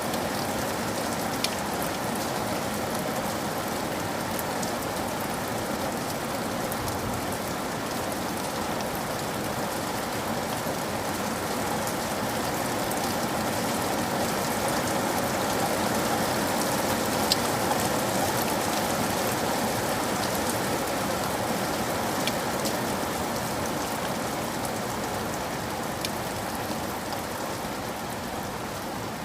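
Steady rain falling, with scattered sharp ticks of individual drops. It swells slightly louder midway through.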